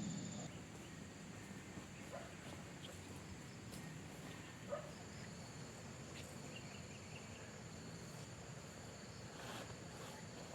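Insects trilling steadily in a high, even tone, with a single faint knock about halfway through.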